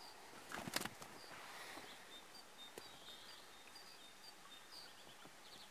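Faint open-air quiet with a small bird chirping briefly every half second or so. A couple of sharp knocks come a little under a second in.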